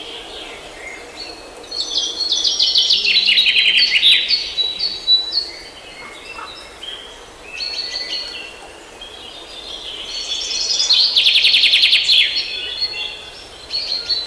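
Small birds chirping in fast high trills, two loud bouts of rapid repeated chirps about two seconds in and again around eleven seconds in, with scattered short calls between.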